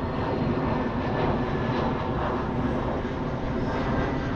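Airplane passing overhead, its engine noise steady throughout.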